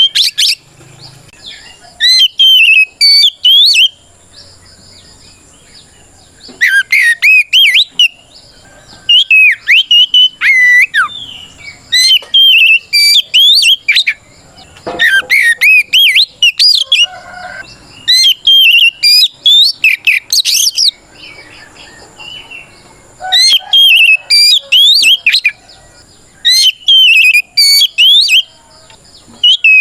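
Oriental magpie-robin (kacer) singing loud, clear whistled phrases in repeated bursts of one to three seconds with short pauses between them: the full 'ngeplong' challenge song of a bird calling out a rival.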